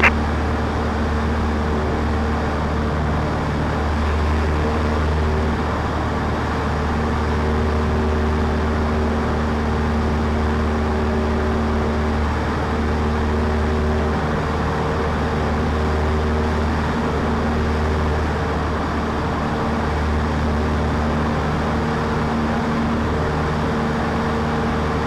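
Cessna 152's four-cylinder Lycoming O-235 engine and propeller running steadily at cruise power, heard from inside the cabin.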